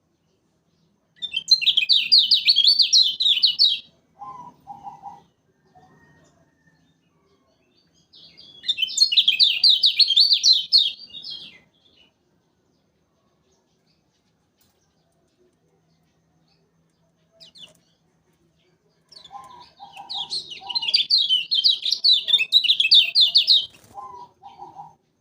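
Kecial kuning, a small Lombok white-eye, singing three loud bouts of fast, high, chattering trills a few seconds apart. Brief lower notes come between the bouts.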